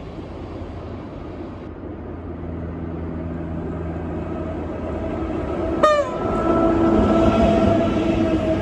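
A train running through and growing louder, with a short horn blast about six seconds in, followed by a steady pitched tone and rushing noise as it passes.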